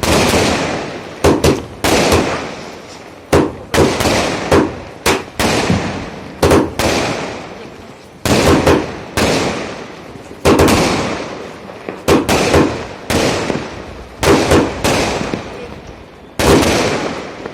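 A 60-shot aerial fireworks cake firing shot after shot: sharp bangs about once a second, often in quick pairs, each followed by a fading tail.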